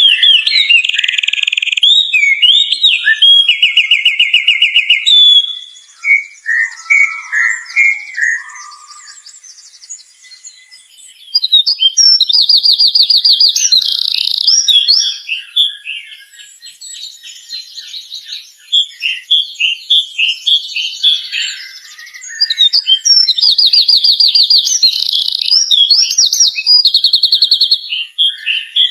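Songbird singing loud, fast trilled phrases in bursts of a second or more, high-pitched. About six seconds in there is a softer, lower warbling passage before the loud trills return.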